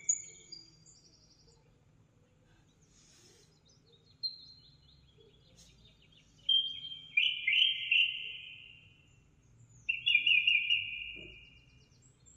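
Songbird singing: quick high chirps, then two longer trilled phrases in the second half, over a faint low hum.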